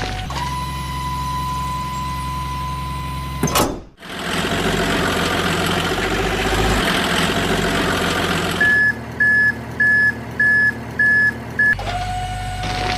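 Electronic truck sound effects, like those from an RC toy truck's sound module: a steady hum, then engine running, then a run of reversing beeps at about two a second, cutting off sharply between sections.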